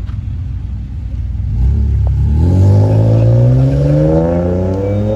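A car engine accelerating: a low rumble, then about a second and a half in it gets louder and its pitch climbs steadily as it pulls through the revs.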